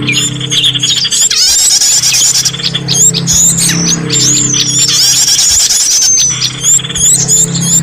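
Bird-lure recording: many small songbirds' chirps, quick sweeping whistles and a rapid ticking trill, layered densely over a steady low musical backing.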